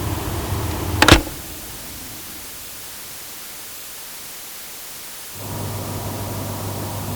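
Electrical appliance humming steadily, cut off by a loud click about a second in, leaving only a faint hiss; a little after five seconds a similar hum starts up again suddenly.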